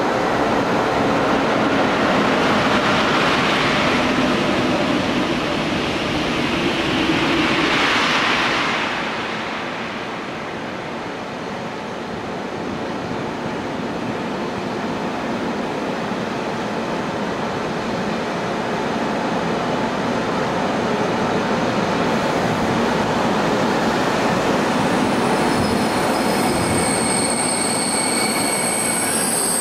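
Train noise: a loud rush for the first nine seconds or so, then a KTX high-speed trainset rolling slowly along the platform. Thin, high-pitched squealing from its running gear sets in near the end.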